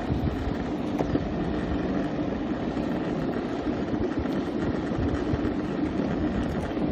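Electric skateboards riding at a steady speed: a continuous rolling rumble of the wheels on the pavement with a faint steady motor hum, and one small click about a second in.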